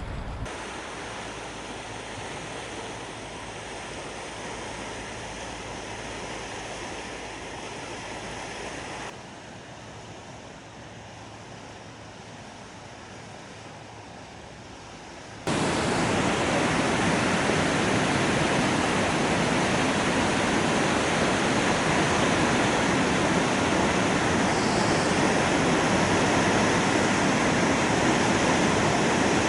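Waterfall swollen by heavy rain, its water rushing in a steady noise. It drops abruptly to a quieter level about nine seconds in, then jumps suddenly much louder about fifteen seconds in and stays loud.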